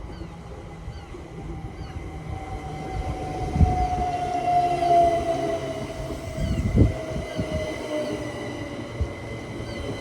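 Southeastern electric multiple-unit train running through the station: a steady rumble with a whine that slowly falls in pitch, and a couple of heavy thuds.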